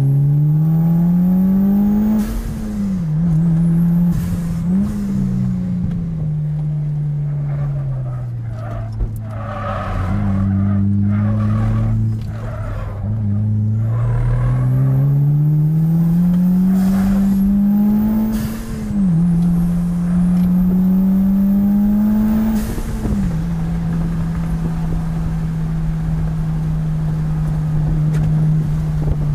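A Mitsubishi Lancer Evolution IX's turbocharged four-cylinder engine pulling hard, its note climbing and then dropping sharply at each gear change, about four times. In the middle the engine winds down and there is a stretch of tyre squeal. Near the end it settles to a steady note.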